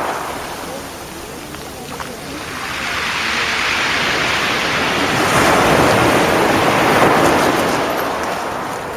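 Sea waves breaking and washing up the beach. The surf dips about a second in, then builds to a peak around six to seven seconds in and eases off again.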